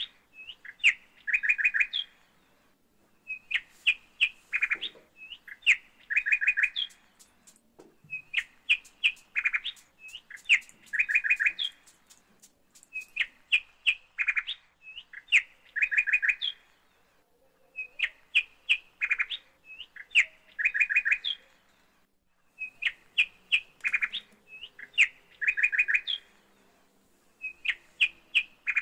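A bird singing the same phrase over and over: a few quick high chirps followed by a fast run of repeated notes, coming again every few seconds with short pauses between.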